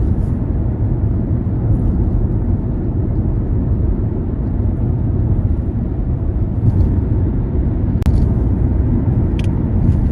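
Car driving on city roads: a steady low rumble of engine and tyre noise, with two short clicks near the end.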